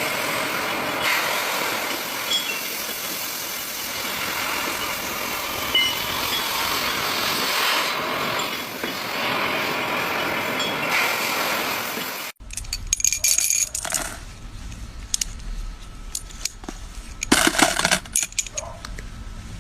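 Metal-working machine running with a dense, steady cutting noise for about twelve seconds. It then changes abruptly to a low hum with scattered metallic clicks and clinks.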